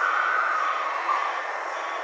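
Black-billed koel calling: short whistled 'woo' notes, the first held longer and higher, a shorter, lower one about a second later, over a steady background hiss.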